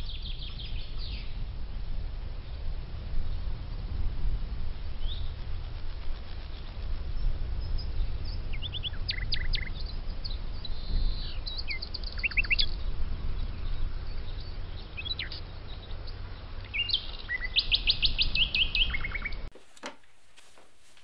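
Small birds chirping in short rapid trills over a steady low rumble. Near the end the sound cuts off suddenly to a much quieter room tone with a few faint clicks.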